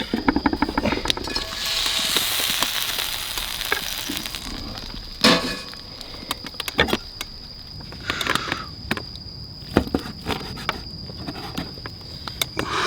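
Meat sizzling on a hot pan over a campfire: a loud burst of sizzling about two seconds in that eases off, with crackles and sharp knocks scattered throughout.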